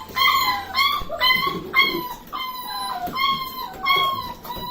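Young puppies whining and crying over and over, with high cries that often slide down in pitch, about two a second.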